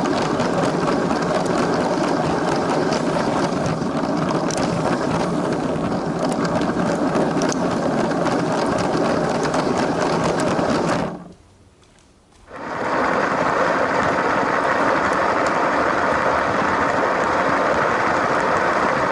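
LEGO train's small electric motor running with its wheels rattling over plastic track, a steady fast clatter. It drops away for about a second two thirds of the way through, then comes back with a slightly brighter sound.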